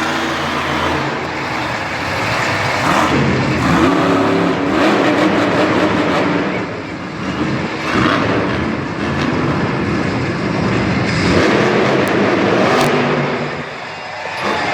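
Monster truck's supercharged V8 engine running loud, revving up and down several times as the truck drives in the arena.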